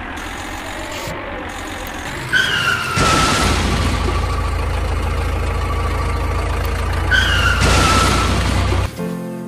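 Vehicle engine noise with a steady low rumble, broken twice by a short falling squeal, about two seconds in and about seven seconds in. Music takes over near the end.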